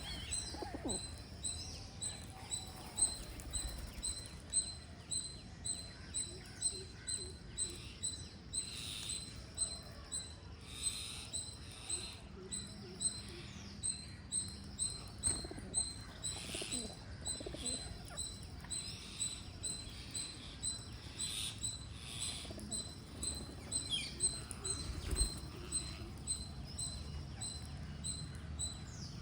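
Green parrots feeding: a steady run of short, high chirps, about two a second, with a few falling whistles and scratchy bursts of noise mixed in.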